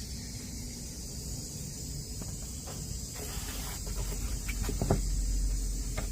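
Steady high hiss with a few small clicks and knocks of handling, mostly in the second half, and a low rumble that swells near the end.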